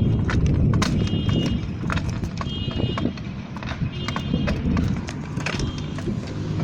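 Mountain bike rattling over rough ground: quick irregular knocks and clatter from the bike, over a heavy low rumble of wind on the microphone. A brief high squeak recurs about every second and a half.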